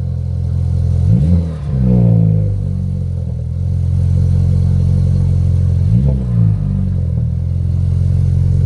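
BMW F32 engine idling warm through a newly fitted cold air intake, blipped twice: a rev about a second in that rises and falls back over a second or so, and a shorter blip about six seconds in, settling to a steady idle between.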